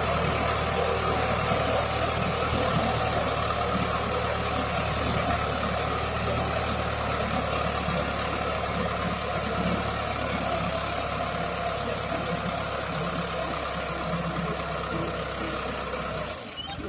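Mahindra tractor's diesel engine running steadily, with a short dip in level just before the end.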